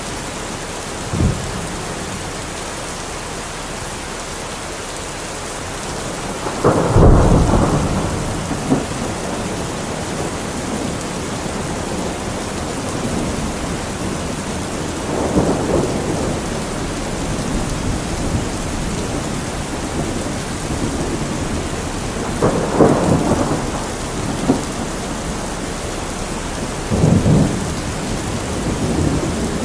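Heavy rain falling steadily on a metal roof, with several rolls of thunder. The loudest roll comes about seven seconds in, and smaller ones come around the middle and near the end.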